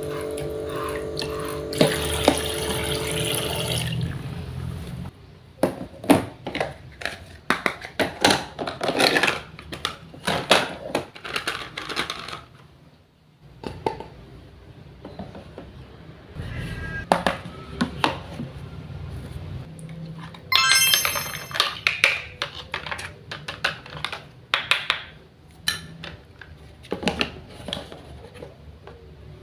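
A toy kitchen set's little water pump running for a few seconds, then many light plastic clicks and clatters as toy pieces are handled. A short electronic tone sounds about two-thirds of the way through.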